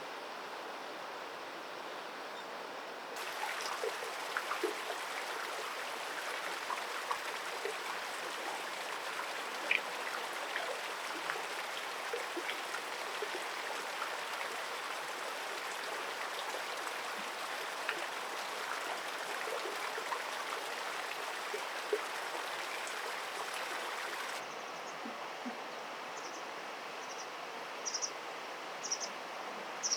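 Flowing stream water: a steady rush with small splashes and trickles. It steps up about 3 s in and changes again about 24 s in, and near the end short, high, repeated chirps come in.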